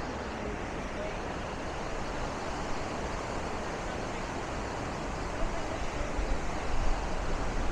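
Steady rush of Bow Falls, the Bow River's waterfall, with faint voices over it and a few low rumbles in the last couple of seconds.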